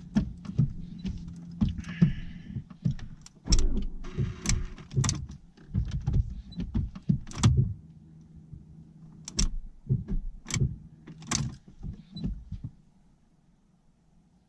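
Irregular clicks and knocks of a car door, keys and ignition over a low steady hum, as a 2013 Fiat 500 Abarth is tried on a dying original battery and its engine does not start. Near the end the sounds stop and it falls almost silent.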